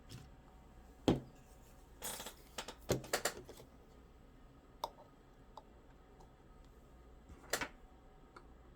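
Scattered clicks and light knocks of small parts and tools being handled and set down on a workbench: a cluster of them a couple of seconds in, a few lone ticks, and a sharper knock near the end.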